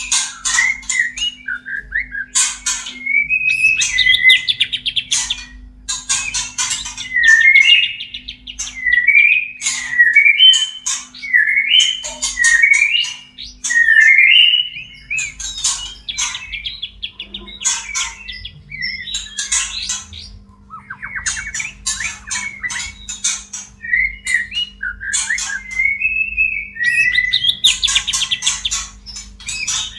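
White-rumped shama (murai batu) calls of a bird in breeding condition: rapid sharp clicking chatter mixed with short, rising warbled whistles and buzzy rattling phrases.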